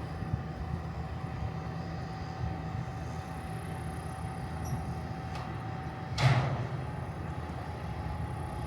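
Steady low engine rumble with a constant whine over it, and one sudden loud clank about six seconds in.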